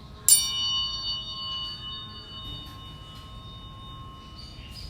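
Metal tuning forks struck once, a sharp clang about a third of a second in, then several high ringing tones that fade away over about four seconds.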